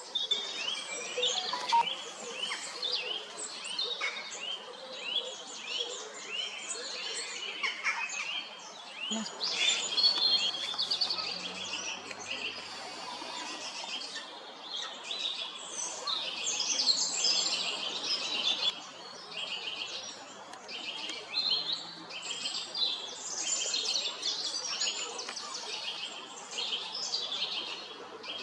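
Several songbirds singing at once: a dense chorus of quick, overlapping chirps, trills and whistles.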